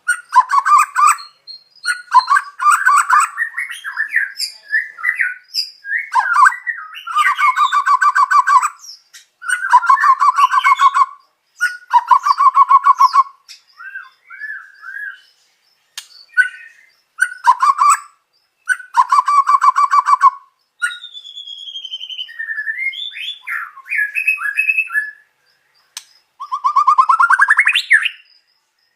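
White-rumped shama (murai batu) song of the kind used as a masteran training recording, full of phrases borrowed from other birds' songs. It comes as a string of short, loud phrases: several fast buzzy rattles, then clear whistled slides, and near the end a long rising sweep.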